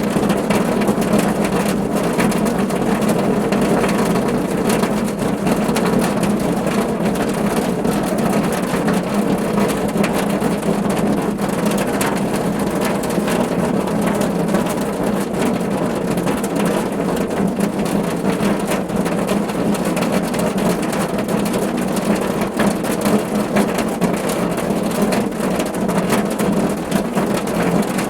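Steady, heavy rain pattering on a car roof: a dense, even spatter of drops that never lets up.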